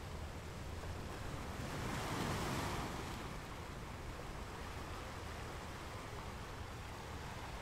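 Choppy sea water and wind, with wind buffeting the microphone; the wash swells briefly about two seconds in.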